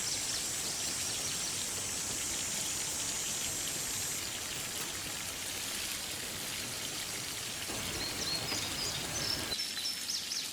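Mountain creek flowing with a steady rushing noise, with birds chirping over it near the start and near the end. The low part of the rush drops away abruptly near the end.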